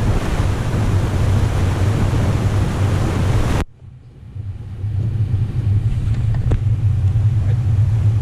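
Airbus A320 cabin noise during taxi: a steady low engine and air-conditioning hum under a loud rushing hiss. The hiss cuts off abruptly about three and a half seconds in, leaving a quieter steady low hum with a couple of faint clicks.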